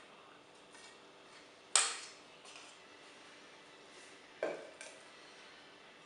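Kitchen utensils clinking against dishes while coleslaw is served: a sharp clink about two seconds in, another a few seconds later, with lighter taps between.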